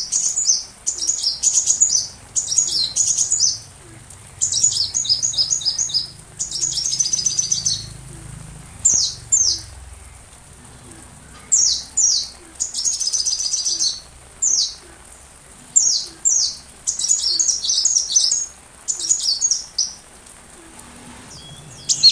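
Sunbird ('kolibri') song: repeated short phrases of rapid, very high chirps and trills, each about a second or less, separated by brief pauses, over a faint steady hiss.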